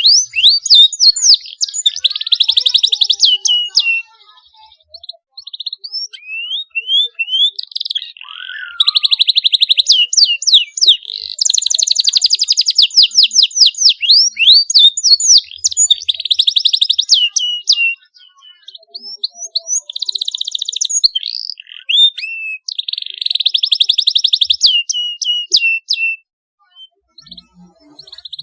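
Domestic canary singing in high-pitched phrases: fast buzzing trills (rolls) and quick rising and falling whistled notes, broken by a few short pauses.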